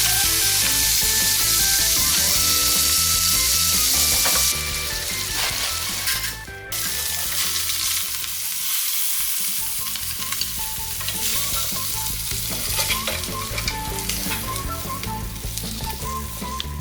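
Food frying in hot oil in a pan: a steady, loud sizzle that drops a little in level about four and a half seconds in, with a brief break a couple of seconds later.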